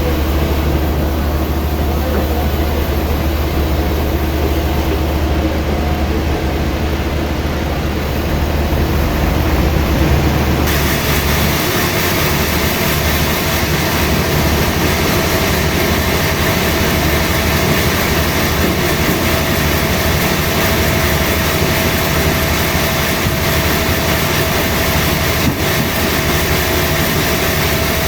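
Sawmill machinery running steadily. About ten seconds in, the sound turns harsher and hissier with a steady whine, and the deep hum drops away.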